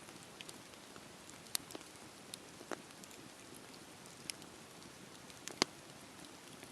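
Campfire burning: a low steady hiss with irregular sharp crackles and pops, the loudest pop about five and a half seconds in.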